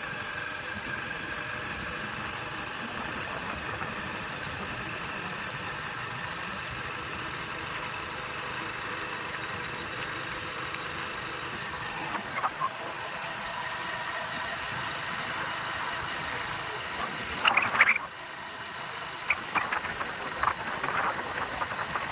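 A train running past with a steady rumble. Short bird chirps come in over it in the last few seconds.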